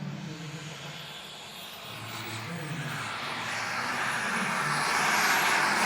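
Turbine engine of a large RC model jet growing steadily louder as the jet approaches, a rushing jet noise with a thin high turbine whine that rises slightly in pitch.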